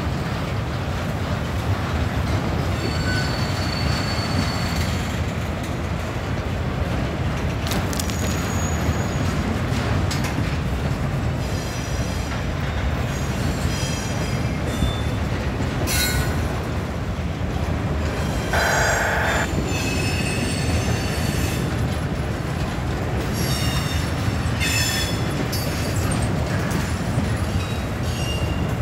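Freight train cars rolling past with a steady rumble of wheels on rail. Brief high-pitched wheel squeals break in several times.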